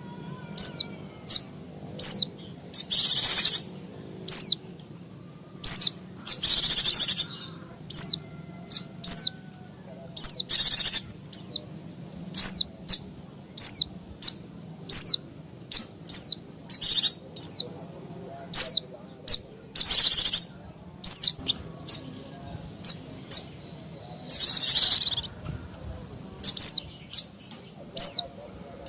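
Pleci (white-eye) calling busily: short, sharp, high notes sliding downward, about one or two a second, broken every few seconds by longer bursts of dense, rapid high chatter.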